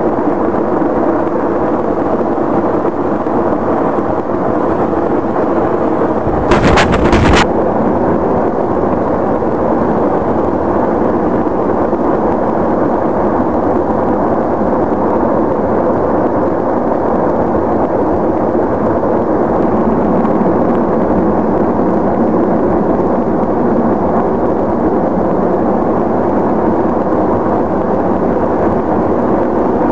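Fireworks and explosions going off in a large fire: a continuous loud crackling noise, with one much bigger blast about six seconds in that lasts about a second.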